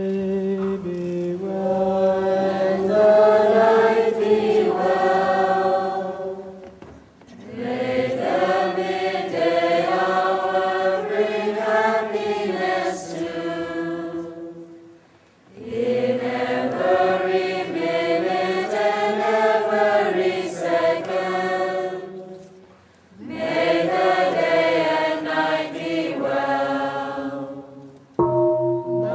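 Monks and nuns chanting together in long melodic sung phrases, four of them with brief pauses for breath in between, and a fifth starting near the end.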